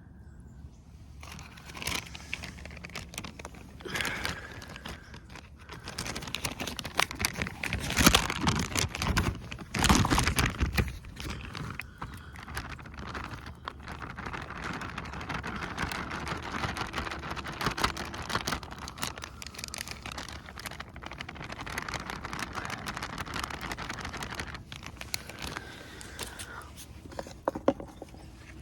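Handling noises: crinkling and rustling with scattered light knocks and clicks, and two louder bursts about eight and ten seconds in.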